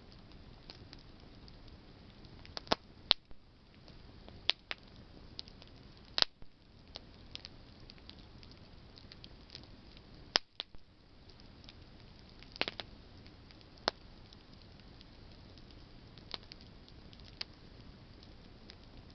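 Campfire of burning branches crackling: irregular sharp pops and snaps, the loudest a few seconds apart, over a soft steady hiss.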